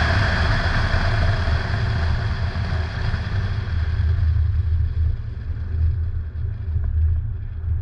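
Inside the cabin of a 2011 Mustang V6 (3.7-litre V6) slowing down right after a full-throttle quarter-mile run: a steady low engine and road rumble, with wind and tyre hiss fading away over the second half as the car loses speed.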